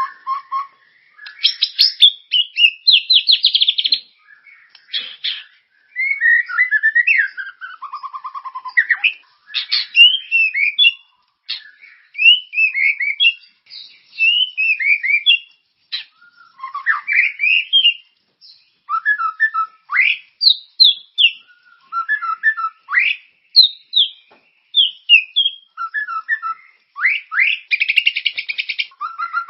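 Songbird tutor-song recording (masteran) for white-rumped shamas: a continuous run of varied whistled phrases, chirps and rising and falling notes, broken by short pauses. Fast rattling trills come about two seconds in and again near the end.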